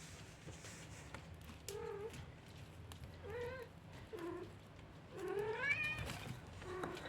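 A kitten meowing five times in short, high calls, with a longer, louder, rising meow about five seconds in.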